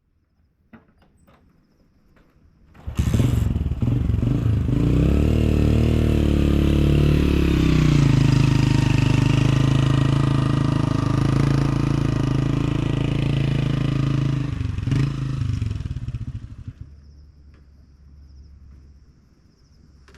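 An engine starts suddenly about three seconds in, its pitch settling after a few seconds into a steady run, then stops about twelve seconds later and fades out.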